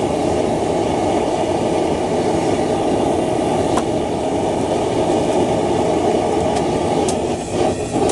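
Forge running with a steady, even rushing noise and no break, with a couple of faint clicks over it.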